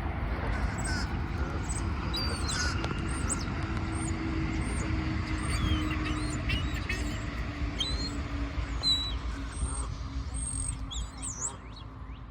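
Several small birds chirping with many short, high, rising-and-falling calls, over a steady low rumble and a faint drone that slowly drops in pitch.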